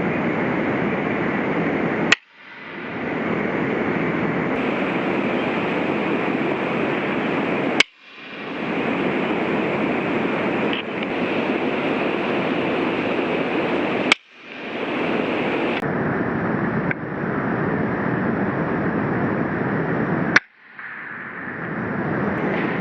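Four sharp shots from an FX Impact .177 PCP air rifle, about six seconds apart, each cutting the background briefly before it returns. A steady rushing noise runs underneath.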